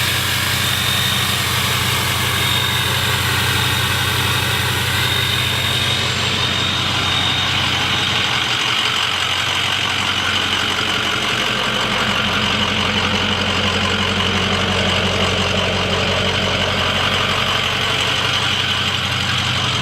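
Ford 6.0 Powerstroke V8 turbo-diesel idling steadily through a 4-inch turbo-back straight-pipe exhaust.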